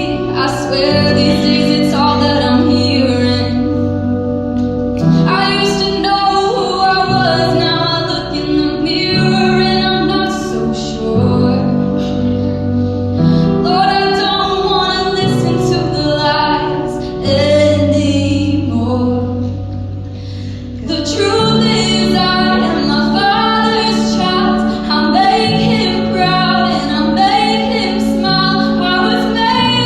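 A woman singing a gospel solo over instrumental accompaniment, whose sustained low notes change every one to two seconds.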